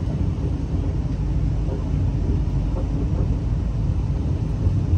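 V/Line diesel train in motion, heard from inside the carriage: a steady low rumble of running gear and wheels on the track.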